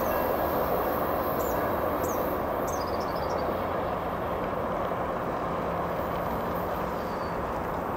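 GO Transit commuter train rolling past and away down the line, a steady rumble that slowly fades.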